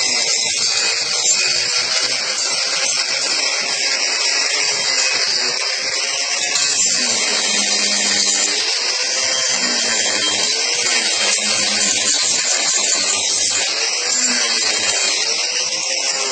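Angle grinder with a Saburtooth extra-coarse flat 4-inch carving disc grinding into wood, a steady harsh rasp. The motor's pitch sags and recovers several times as the disc bites in and eases off. The disc is worn, missing about a third of its teeth.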